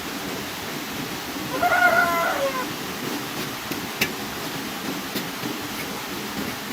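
Steady rain, with one short high-pitched call about one and a half seconds in that falls in pitch at its end.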